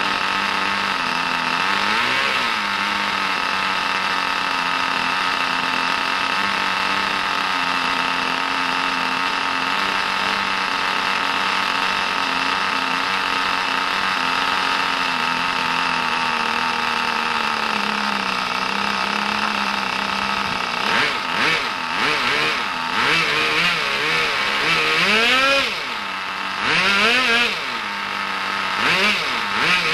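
Brand-new Kyosho GS-11X nitro engine of an RC car on its first run, idling steadily at a high pitch. From about two-thirds of the way through, the throttle is blipped several times in quick succession, each rev rising and falling in pitch.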